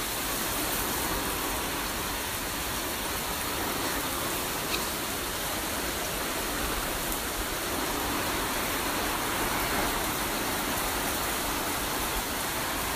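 Hurricane rain falling steadily, an even hiss of rain with no break.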